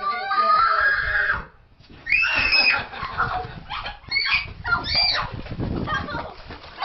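An animal's high-pitched cries: one drawn-out cry lasting about a second and a half, then after a short pause a run of short squealing calls that rise and fall in pitch.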